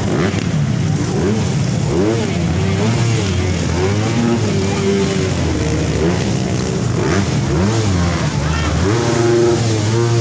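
Motocross dirt bike engines revving up and down over and over as the bikes race, several overlapping.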